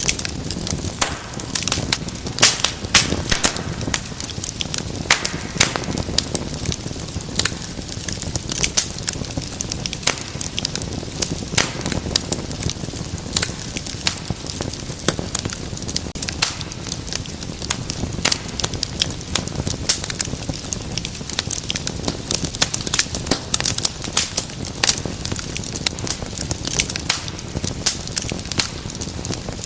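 Wood fire in a fireplace crackling, with frequent irregular sharp pops and snaps over a low steady rumble of flame.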